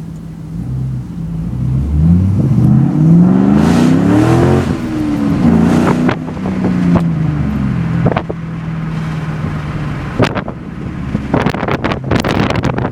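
2010 Mustang GT's 4.6 L V8 through an off-road H-pipe, mid-mounted Magnaflow Magnapack mufflers and Pypes bomb tips, heard from inside the cabin with the windows down: the note rises for about three seconds under acceleration, drops off, rises briefly again, then settles to a steady drone. Gusts of wind noise come in near the end.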